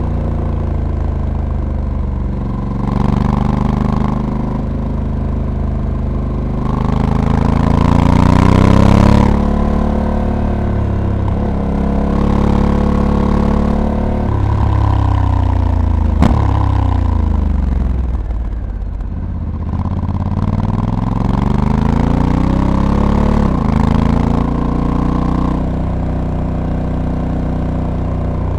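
Honda Africa Twin DCT's parallel-twin engine under way, repeatedly rising in pitch as it accelerates, then dropping abruptly as the dual-clutch gearbox shifts up on its own. About halfway through the revs fall steadily as the bike slows, with a single sharp click about 16 seconds in, before it accelerates through the gears again.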